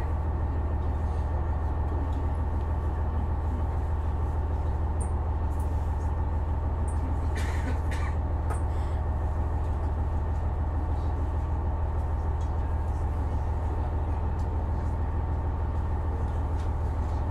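Inside a KiHa 126 series diesel railcar standing still with its diesel engine idling: a steady low hum with a fainter steady higher tone and no rail-joint beats. A few faint clicks come about halfway through.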